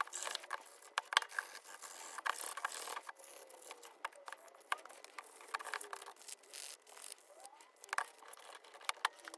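Sandpaper scratching in short, irregular strokes on the painted die-cast metal body of a model car, with small clicks and knocks as the model is handled, sanding paint back for a rusty patina.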